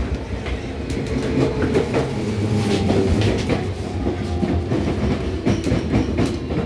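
Inside a Seibu 6000 series electric train car: a steady low rumble with scattered clicks and knocks, and no rising or falling motor tone.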